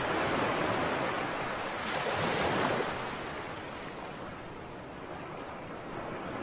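Sea surf: waves washing in with a steady hiss, one louder surge about two and a half seconds in that then falls away.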